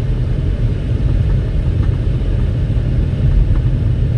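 Steady low road rumble of a 2019 Toyota RAV4 driving on a winter road, heard from inside the cabin.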